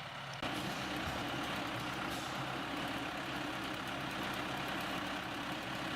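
Claas Arion 550 tractor's diesel engine running steadily, its sound stepping up in level about half a second in.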